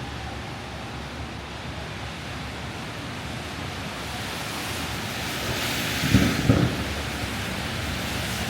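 Steady hiss of a city street in wet snow turning to rain, with the wash of traffic and precipitation, swelling slightly and broken by two low thumps about six seconds in.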